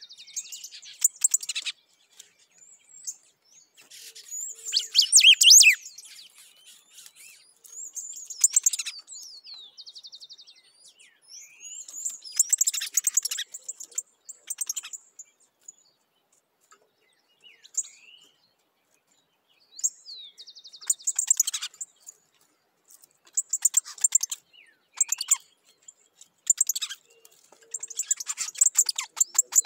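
Picahueso singing: short bursts of high chirping, whistled song repeated every two to four seconds, with brief pauses between phrases and a few short buzzy trills.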